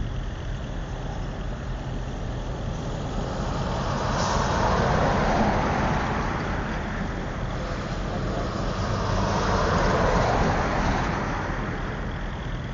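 Highway traffic: a steady low engine rumble, with vehicles passing twice, each swelling up and fading away, about four seconds in and again about nine seconds in.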